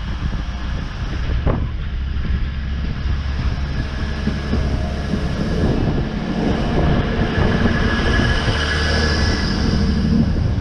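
Train running on the rails: a steady low rumble, with a higher metallic whine growing louder in the second half.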